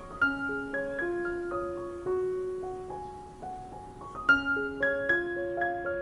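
Background music: a gentle piano or keyboard melody of clear, separate notes over a simple lower line.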